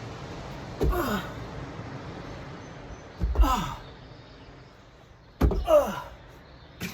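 A person's voice: three short effortful groans or exhalations, each falling in pitch, a couple of seconds apart, with a brief fourth sound near the end.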